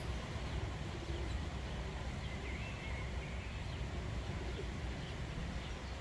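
A few faint, short bird chirps about two to three seconds in, over a steady low rumble of outdoor background noise.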